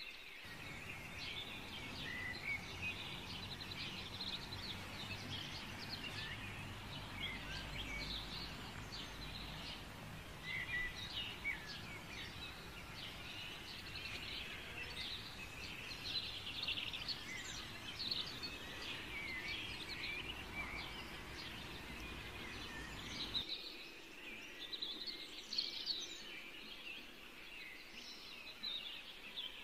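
Small birds chirping and twittering continuously in a dense, busy chatter. A faint low steady hum runs underneath and cuts off suddenly about 23 seconds in.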